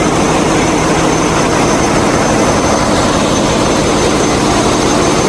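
Ship's engine-room machinery running: a loud, steady din with a faint steady hum, unchanging throughout.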